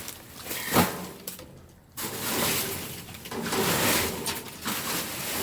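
Rummaging through trash in a dumpster: a knock a little under a second in, then rustling and shifting of items.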